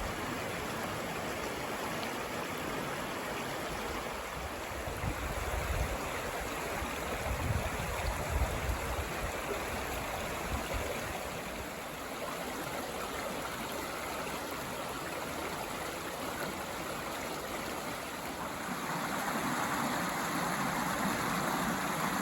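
Brook water running over rocks, a steady rushing that grows louder near the end, with some low rumbling bumps in the middle.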